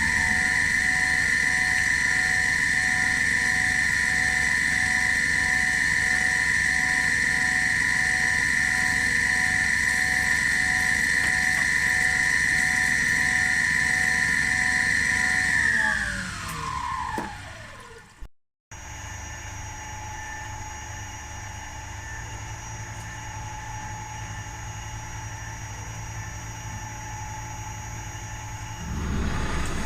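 Milling machine spindle running at a steady high whine, then switched off about halfway through, its whine falling in pitch as it spins down. After a brief dropout, a quieter steady machine hum follows, growing louder near the end.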